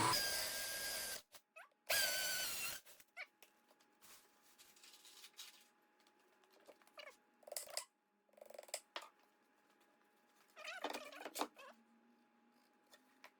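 Electric drill boring into a concrete block in two bursts of about a second each, a steady whine, as holes are drilled for wall plugs. Light knocks and handling sounds follow.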